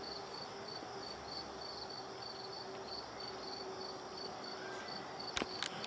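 A cricket chirping, a high pulsed note repeating evenly about three times a second over faint background noise, with a single sharp click about five seconds in.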